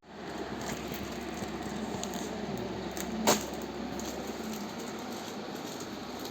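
Murmur of a busy shop: distant voices and general bustle, with a single sharp click about three seconds in.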